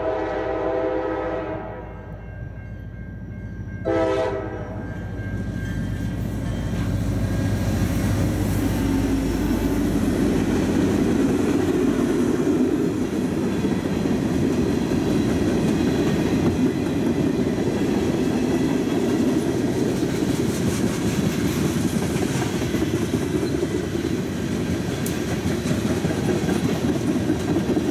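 Diesel freight locomotive horn blowing a chord: the end of a long blast, then one short blast about four seconds in. This is followed by the locomotive and its train rolling past, with the steady rumble and clatter of covered hoppers and tank cars on the rails.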